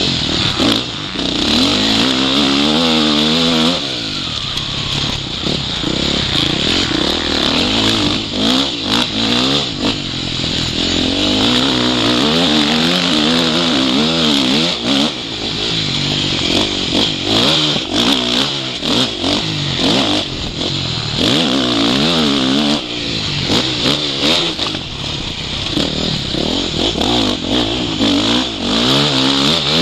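Motocross bike engine revving up and falling back again and again as it is ridden hard around a track, through gear changes, with frequent short knocks. It is heard from a microphone in the rider's video goggles.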